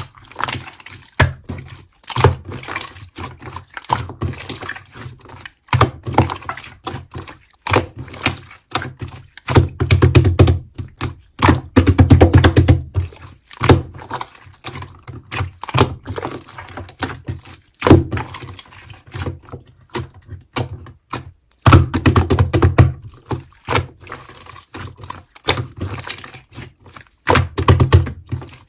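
Clear slime being squeezed and pressed by hand, giving irregular runs of dense wet clicks and pops with short pauses between handfuls.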